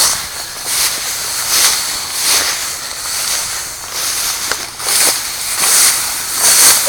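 Footsteps pushing through dry, dense weeds, each step a burst of rustling and crackling stalks, coming a little faster than one a second.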